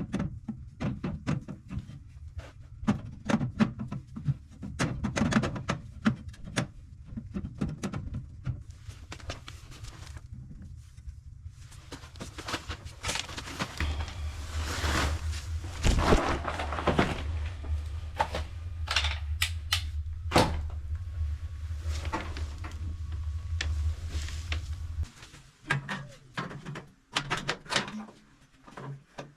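Repeated knocks and clanks of metal panels and tools being handled on a gas boiler. A low steady hum starts about halfway through and cuts off suddenly about ten seconds later.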